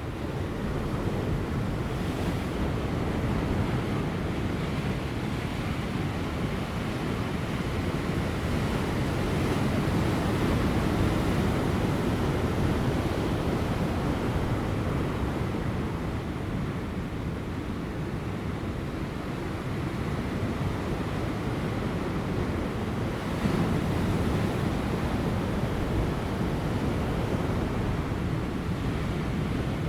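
Large ocean waves breaking on offshore rocks: a continuous wash of surf that swells louder twice, with light wind.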